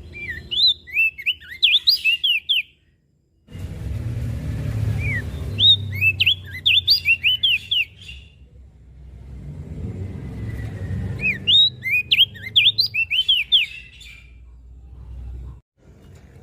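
Crested dark-eye (opior jambul) singing: three bursts of quick, high, sweeping chirps, each about two seconds long and spaced a few seconds apart, over a low rumble.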